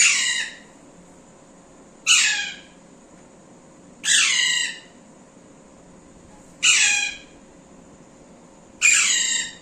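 Pet parrot giving five short, loud squawks about two seconds apart, each dropping in pitch.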